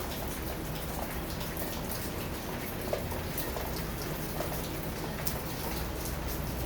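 Steady rain falling, with many scattered individual drops striking a surface close by.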